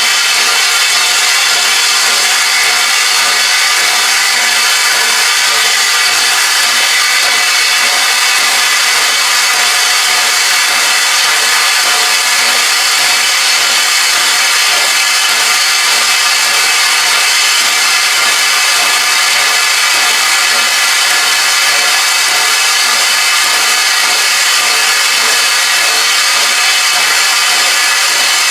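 Steam locomotive standing and letting off steam in a loud, steady hiss, with several steady tones running through it.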